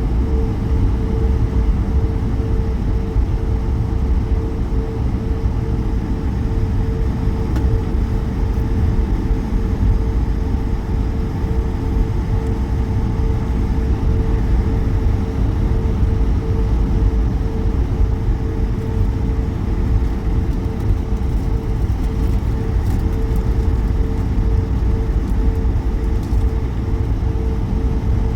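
Cabin noise inside an Airbus A220 on the ground: its Pratt & Whitney geared turbofan engines and the airframe give a steady low rumble with one constant mid-pitched hum, level throughout with no rise of power.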